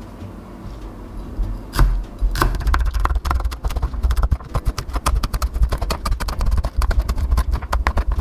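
Kitchen utensil work at a bowl or board: a sharp knock about two seconds in, then a fast, even run of clicks and taps with low thuds, as in chopping or whisking during food preparation.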